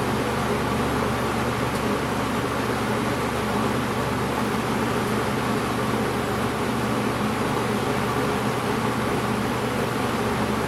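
Edison Thin-N-Lite 20-inch box fan running steadily: an even rush of air from the blades over a low motor hum.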